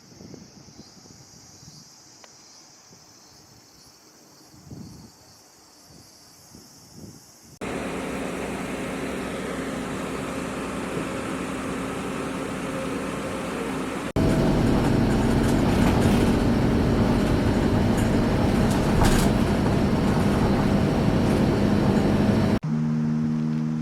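Faint insect chirring, then after an abrupt cut the steady rumbling noise of a running train, which jumps louder at a second cut. Music starts near the end.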